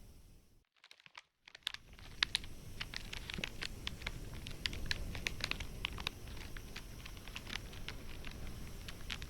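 Campfire crackling: wood snapping and popping in many small, irregular sharp clicks over a low hiss. The sound cuts out for about a second near the start, then the crackling resumes.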